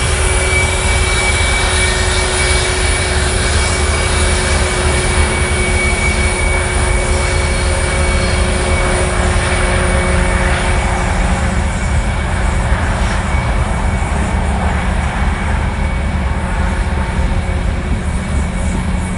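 Freight train passing: a loud, steady rumble and rattle of the cars that holds through the whole stretch, with a few faint steady high tones riding over it.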